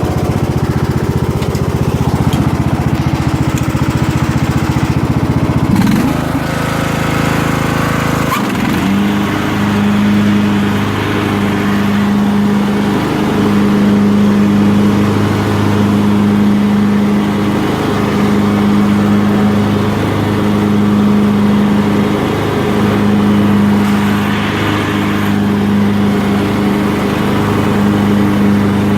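Craftsman LT1000 lawn tractor engine running with the mower deck chopping and bagging leaves. The engine note shifts about six and eight seconds in, then holds steady with a slow, regular waver.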